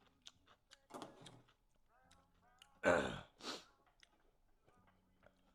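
A person sighs, with one loud breath out about three seconds in, among faint scattered clicks.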